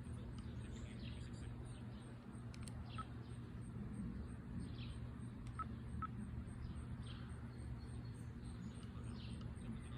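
Birds chirping every second or two over a steady low hum.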